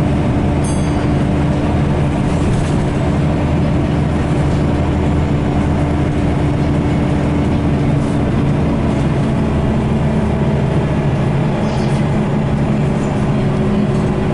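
Scania L94UB bus's nine-litre five-cylinder diesel engine running steadily, its note changing about ten seconds in.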